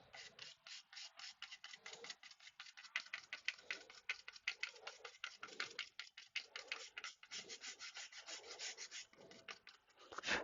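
Quick back-and-forth scrubbing strokes, several a second, rubbing the dust out of a mini PC's dirty, clogged heatsink, with one sharper stroke near the end.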